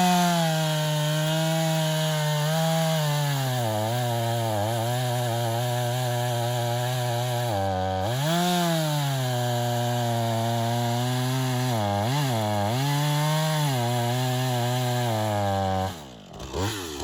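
Chainsaw engine running at high throttle while its chain grinds against a clamp-on sharpening stone. The engine pitch sags and recovers several times as the chain loads against the stone. The sound drops away near the end.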